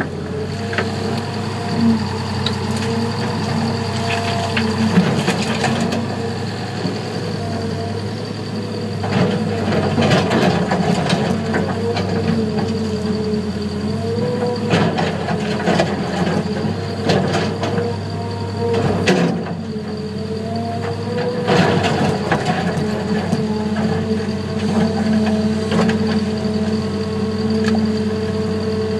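Heavy diesel engines of an excavator and a wheel tractor-scraper running, the engine note rising and falling a little with load, with repeated clanks and rattles of sandstone and a steel bucket, thickest in the middle.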